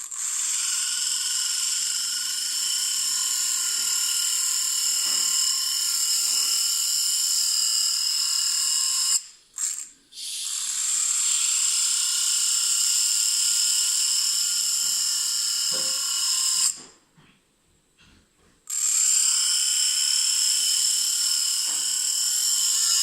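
A small high-speed rotary tool motor running with a steady high-pitched whine while cutting a slot with a cutting disc. It stops briefly about nine seconds in and again for a couple of seconds near the end before starting up again.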